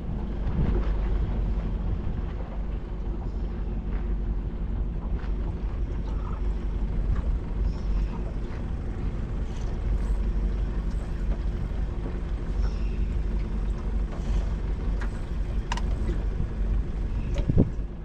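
A boat's outboard motor running steadily at low revs, a constant even hum, with wind rumble on the microphone.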